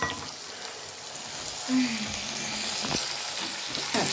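Chopped tomatoes and onions sizzling in hot oil in a metal kadai, a steady frying hiss. A steel spatula scrapes and stirs against the pan a couple of times near the end.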